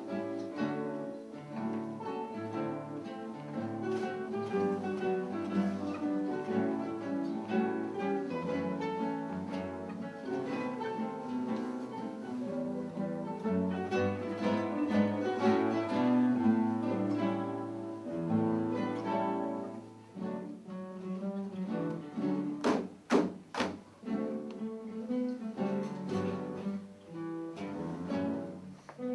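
Acoustic guitar ensemble playing a plucked, melodic piece with many notes moving together, with a few sharp percussive strikes close together about three quarters of the way through.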